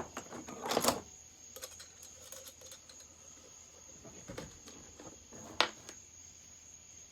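Small metal hand-tool clicks and clinks, with a short clatter about a second in and one sharp click later, as a badly cross-threaded screw is worked on the chainsaw.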